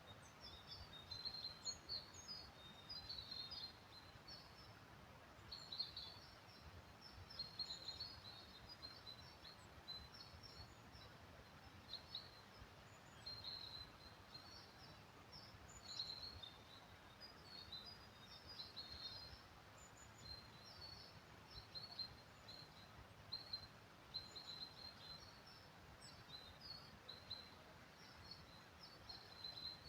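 Faint chorus of small songbirds giving many short, high chirps and twitters, over a low, even background hiss.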